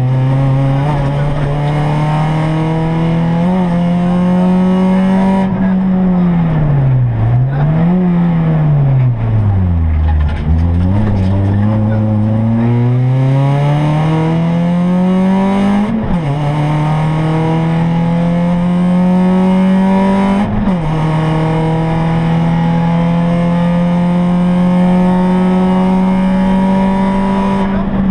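Rally car's engine heard from inside the cockpit, running hard at high revs. The revs drop away twice, lowest about ten seconds in, then climb again, with quick gear changes about sixteen and twenty seconds in, and hold steady near the end.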